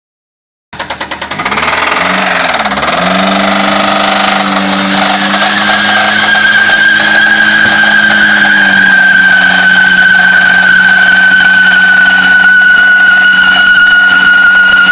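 Chevy S10's 2.2-litre four-cylinder engine, which has a rod knock, revving hard in a burnout. It begins about a second in and swings up and down before holding at high revs. From about five seconds in a loud, steady tyre squeal sets in over the engine.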